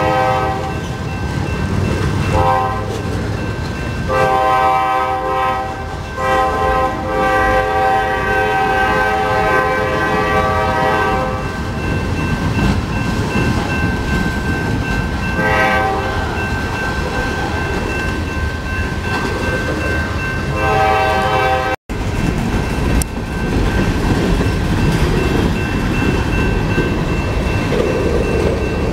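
Freight cars of a passing train rumbling and clacking over the rails, while a diesel locomotive's air horn sounds a series of blasts: a long one from about four to eleven seconds, then shorter ones, the last ending a little past twenty seconds. The sound drops out for an instant just after that, then the rumble goes on.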